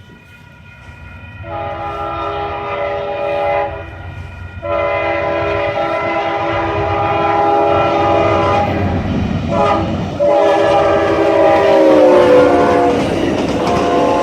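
Amtrak passenger train's locomotive horn sounding a chord in long blasts as the train approaches. The last blast drops in pitch as the locomotive passes. Under it the rumble and clatter of the train on the rails grows louder.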